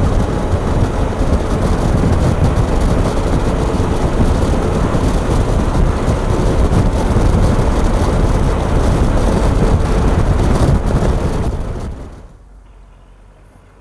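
Motorcycle riding on the road: wind noise on the microphone mixed with the Triumph Tiger 1200's engine and tyre noise, steady, then dropping away sharply about twelve seconds in.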